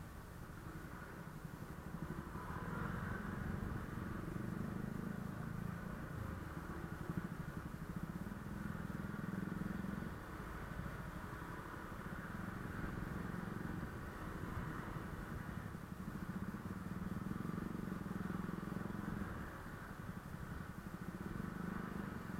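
Honda Click 125i scooter's single-cylinder engine running while riding, its note swelling and easing several times with the throttle.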